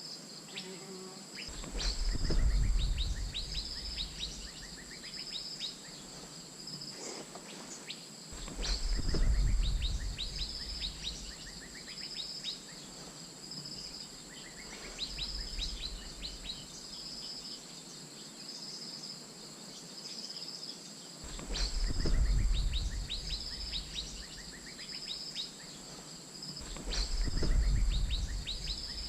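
Asian fairy-bluebird calls in four bouts of rapid short notes, each bout with a low rumble, over a steady background of insects trilling in pulses about once a second.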